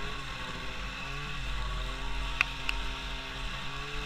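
A small engine running steadily at a distance, its pitch wavering slightly, with a couple of sharp clicks about halfway through.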